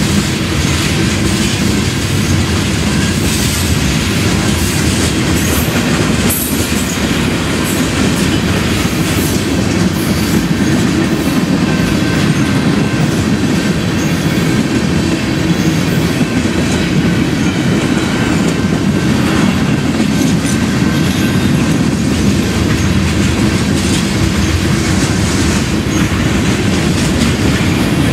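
Mixed freight train of tank cars, covered hoppers and boxcars rolling past at a steady pace: a continuous heavy rumble of steel wheels on rail with the clickety-clack of wheels over rail joints.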